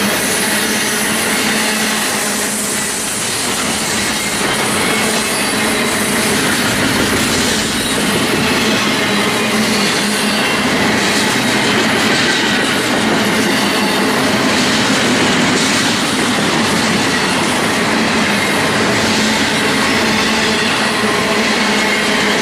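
BNSF intermodal freight train's cars rolling past steadily on steel wheels over the rails.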